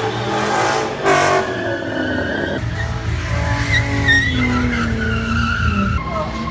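Car engines revving with tyres skidding, and a deep exhaust rumble that swells in about two and a half seconds in.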